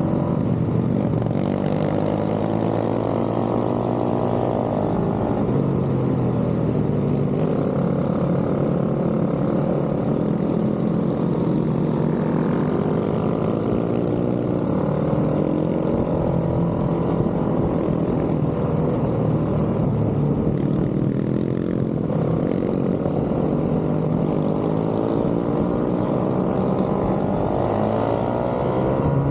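Several pit bikes running together, their small single-cylinder engines revving up and dropping back as they shift, the overlapping engine notes rising and falling throughout.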